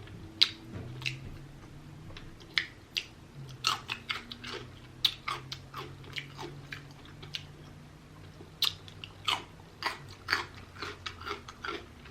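Close-miked eating of rotisserie chicken: irregular biting, chewing and wet mouth clicks and smacks, several a second at times.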